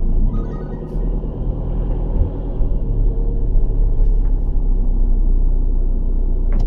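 A motorhome's engine running as the vehicle pulls away and drives off, with a steady low rumble that builds after the first second.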